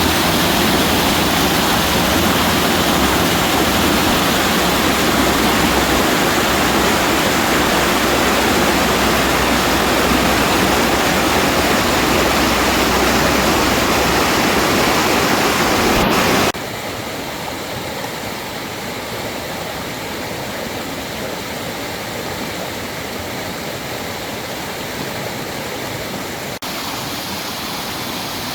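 Rushing water of a fast-flowing creek, a steady full rush. A little over halfway through it cuts suddenly to a quieter, softer rush of water.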